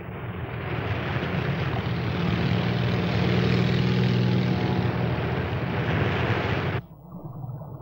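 Propeller aircraft engines droning over heavy rushing noise, growing louder, then cutting off abruptly near the end and leaving a quieter low rumble.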